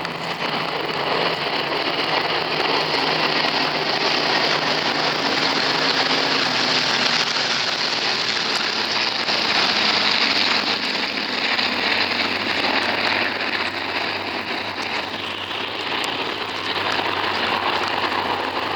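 A mass formation of piston-engined warbirds flying past, many aero engines droning together. The sound swells over the first few seconds, eases off somewhat about three-quarters of the way through, then builds again near the end.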